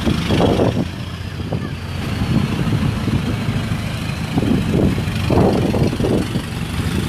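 Car and pickup engines running in the street: a steady low idle hum, with a few short louder bursts.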